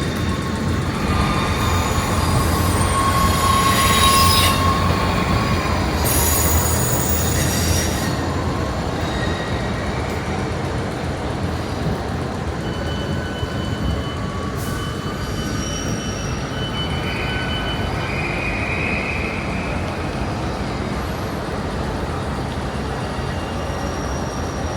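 Electric train rolling slowly through the station with its wheels squealing on the track, loudest over the first several seconds, then settling to a steady rumble with thinner squealing tones.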